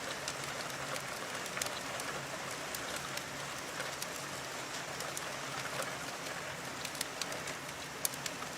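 Steady rainfall with scattered sharp drops and ticks.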